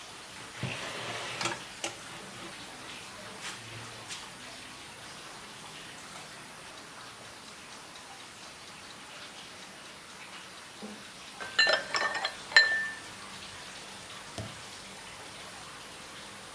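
Kitchen handling sounds: a soft rustle and a few light knocks at the start, then a quick cluster of sharp, ringing clinks of dishes about twelve seconds in.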